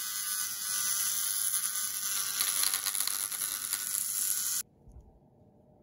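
Dremel rotary tool grinding the burr off the head of a small metal axle on a Matchbox model, a steady high-pitched whir that cuts off suddenly near the end.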